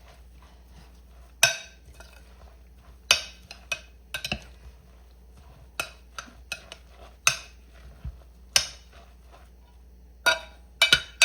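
A utensil knocking and clinking against a mixing bowl while a grated zucchini and egg mixture is stirred, in sharp irregular strikes about every second or two that come faster near the end.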